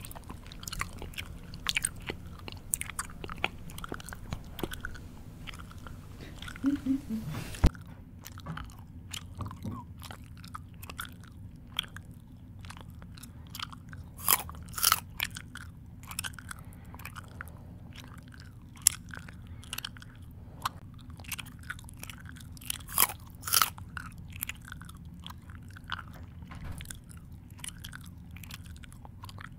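A person chewing close to the microphone: irregular crunches and wet mouth clicks, with a few louder crunches around the middle.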